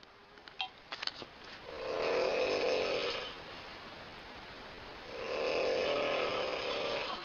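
A woman snoring: two long snores, each about a second and a half to two seconds, a couple of seconds apart, after a few short clicks near the start.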